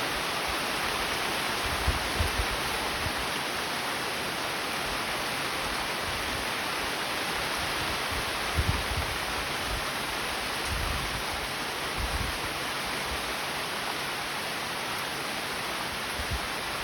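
Steady rain falling, a dense even hiss, with a few brief low thumps about 2, 9 and 12 seconds in.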